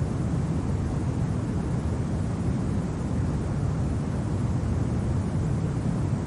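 Steady low rumble of winter wind, an even noise without gusts or breaks.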